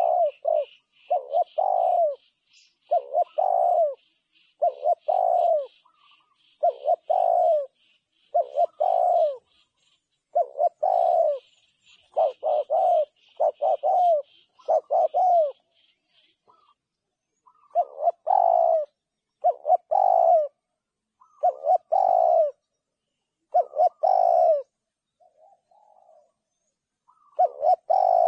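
Spotted dove cooing over and over, each phrase about a second long and repeating every one to two seconds, with a pause of a few seconds in the middle. A fainter, rapid high-pitched chirping from another bird runs under the first half.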